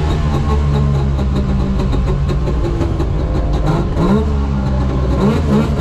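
Wartburg 353WR rally car's three-cylinder two-stroke engine running hard at high revs, heard from inside the car. About four seconds in, the revs dip briefly and then climb again.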